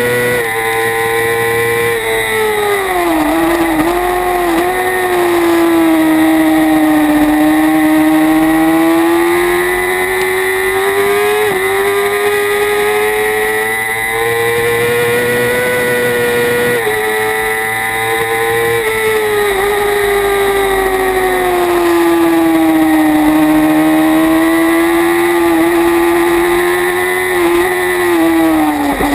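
Kawasaki Ninja ZX-6R's inline-four engine at racing revs, heard onboard: its pitch rises under acceleration and falls under braking, with sudden steps at the gear changes. Wind rushes over the microphone throughout.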